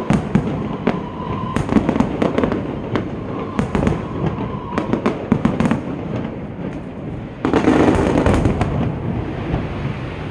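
Aerial fireworks display: a run of sharp bangs and crackling shell bursts, rising to a louder, denser barrage about three quarters of the way through, then dying away.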